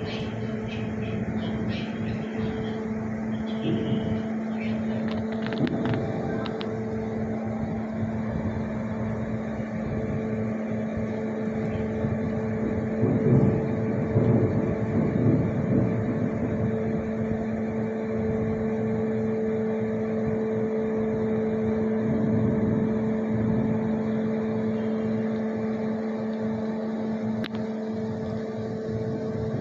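Steady hum of a ship's anchoring machinery, with two even tones held throughout and a louder, rougher stretch around the middle as the anchor chain is worked.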